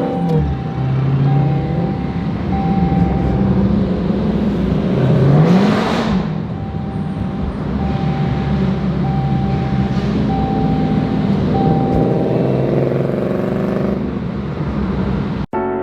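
Car engines idling and running in slow traffic, with one engine revving up and dropping back about five and a half seconds in. The sound cuts off abruptly near the end.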